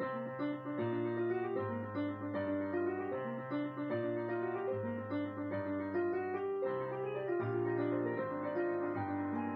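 Instrumental piano music: a keyboard plays a flowing line of notes over a steady bass, the notes changing about every half second.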